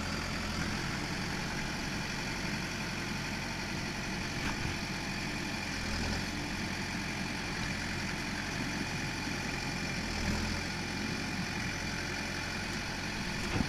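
Tractor engine running steadily at low revs, with slight rises and falls, while the front-loader bucket is being worked.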